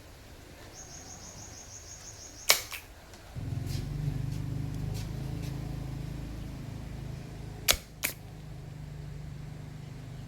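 Portable speaker under repair: after a faint high-pitched trill comes a loud click about two and a half seconds in, and then a low electrical hum sets in and runs on. Near the eighth second come two sharp pops close together, the kind of popping fault being repaired.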